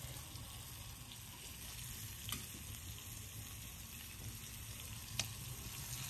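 Pieces of liver sizzling steadily in hot ghee on an iron tawa, with two sharp clicks about two and five seconds in.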